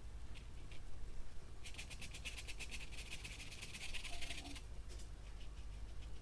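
Paintbrush scrubbing quickly against canvas for about three seconds, a fast run of soft scratchy strokes, with a few light taps of the brush before and after.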